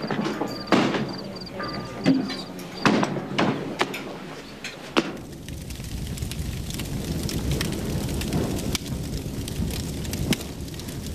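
Clinks and knocks of dishes and cutlery. About five seconds in they give way to a steady hiss of heavy rain with a low rumble and a few faint clicks.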